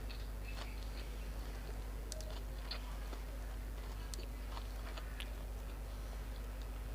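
A person chewing and eating grilled pork salad with sticky rice, with scattered short mouth clicks and smacks. A steady low hum runs underneath.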